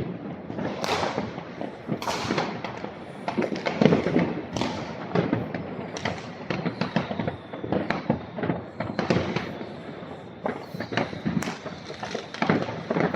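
New Year's Eve fireworks going off: a dense, uneven run of overlapping bangs and crackles of varying loudness, with a faint high whistle for a few seconds near the end.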